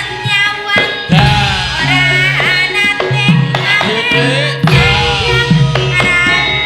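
Javanese gamelan music with kendang hand-drum strokes under sustained metallophone tones and a melody that slides up and down in pitch.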